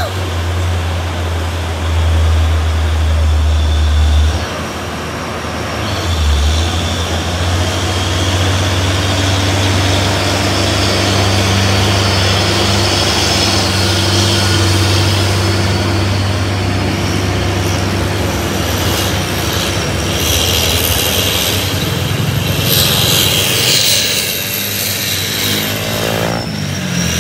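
Heavy truck's diesel engine running under load at low revs, a deep steady hum as it crawls up a steep grade, a little louder in the first few seconds.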